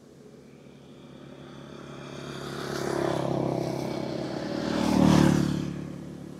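Two motor vehicles passing close by on the road one after the other, each engine growing louder and then fading; the second, about five seconds in, is the louder.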